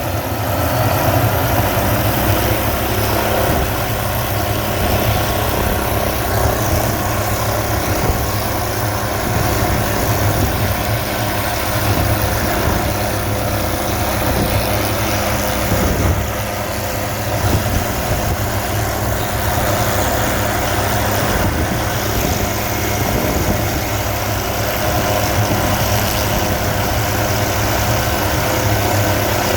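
Hughes 500C helicopter's turbine engine and rotor running steadily, with a constant low rotor throb under a higher turbine hiss and a faint whine.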